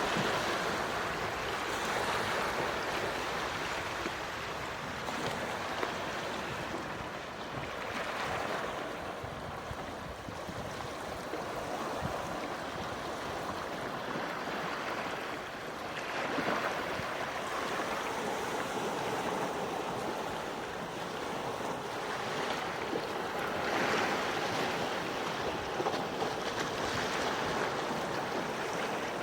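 Gentle ocean waves washing onto the shore, a steady wash of surf that swells softly every few seconds.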